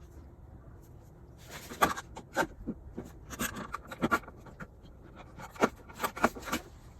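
A string of irregular, sharp clicks and knocks, starting about a second and a half in and coming in clusters.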